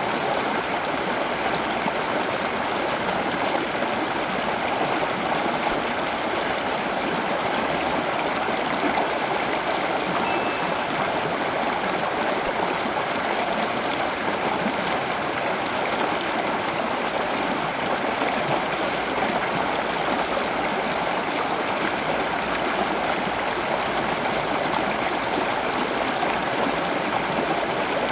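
Running water, flowing in an even, unbroken rush.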